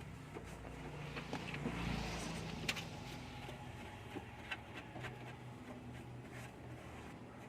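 Mitsubishi L300 van engine coming to life and running, with a brief rise in revs about two seconds in before it settles to a steady idle, and a few light clicks over it.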